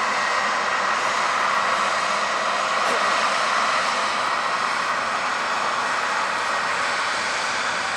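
Jet airliner's engines: a steady rushing noise that swells slightly about three seconds in, then eases a little.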